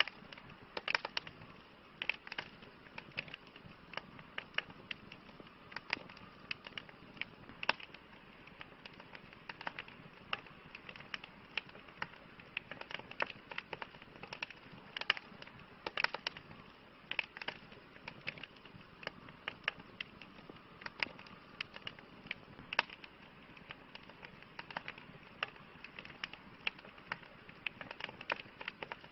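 Wood fire crackling: irregular sharp pops and snaps, several a second, over a steady soft hiss of burning.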